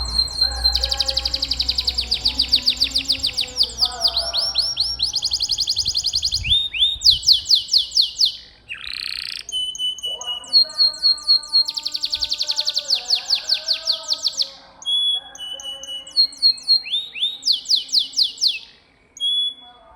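Canary singing: long trills of rapidly repeated notes and runs of quick falling sweeps, broken by brief pauses a little before the middle and near the end.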